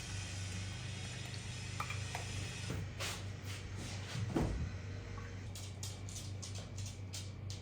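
Water running, then a few knocks and a short scrape of things being handled, as with a cupboard, followed by a run of light clicks.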